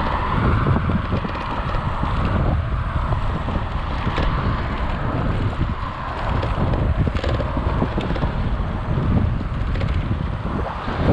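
Wind buffeting an action camera's microphone that has no wind muff, as a steady gusty rumble from the rider's speed.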